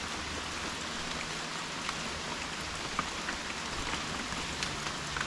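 Steady heavy rain: an even hiss of rainfall with scattered single drops ticking close by.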